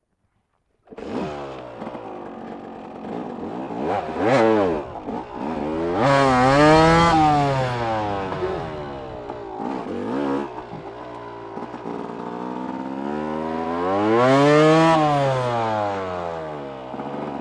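KTM dirt bike engine running under way, cutting in about a second in. Its revs rise and fall several times, with two long climbs and drops.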